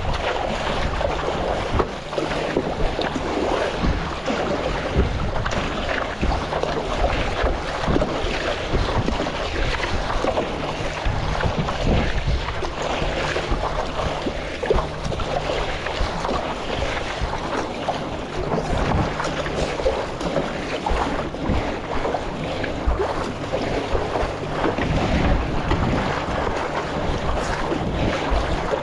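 Steady wind buffeting the microphone over splashing and sloshing of choppy sea water around a stand-up paddleboard.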